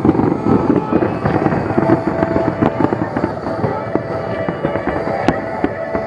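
Dense barrage of fireworks exploding: rapid overlapping bangs and crackles that thin out slightly towards the end.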